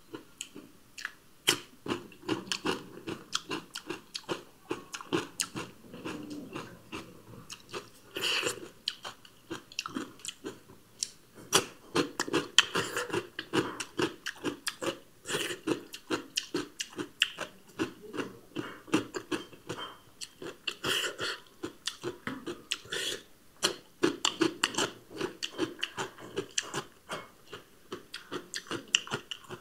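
A person chewing and biting into raw cucumber and white radish slices: a continuous run of short, wet crunches, with a few louder bites along the way.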